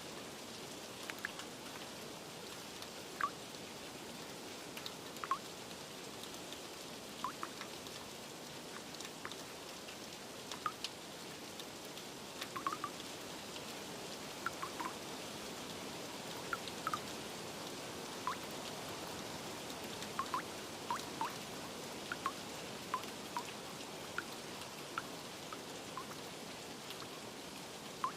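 Steady rain, with single drops plinking irregularly on top, a few every couple of seconds.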